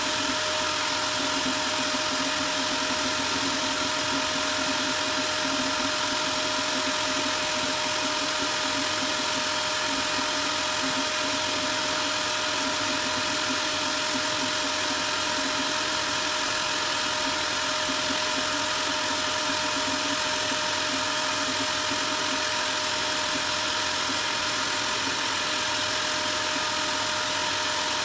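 Power sander running steadily with a constant whine, sanding down body filler on a car's front wing.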